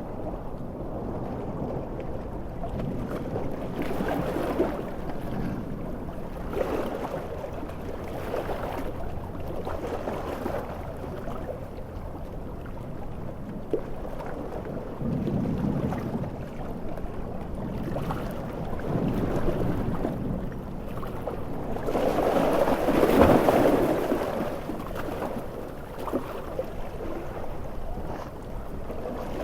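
Large ocean waves breaking and washing in repeated surges every few seconds, the biggest one about three quarters of the way through.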